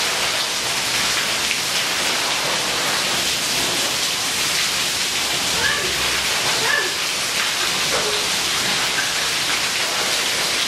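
Heavy rain falling steadily on wet paving and grass, a dense even hiss.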